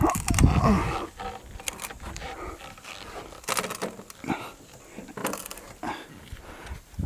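A man grunting with effort while turning a sawmill log by hand, with several knocks and scrapes of wood and tools against the mill.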